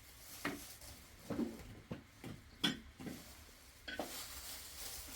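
Cookware and utensils knocking and clinking, about seven times in the first four seconds, then a steady hiss from about four seconds in.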